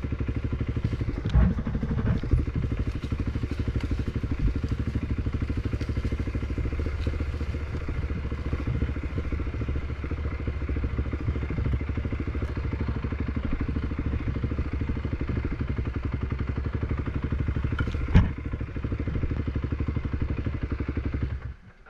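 A Predator 500 single-cylinder engine running steadily at low speed with an even, fast pulse. There are a few sharp knocks near the start and a louder one near the end. The engine sound cuts off suddenly just before the end.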